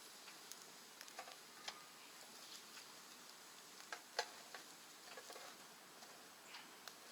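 Wood fire in a rocket stove crackling faintly: a handful of scattered small pops and ticks over a quiet background, the loudest a little after four seconds in.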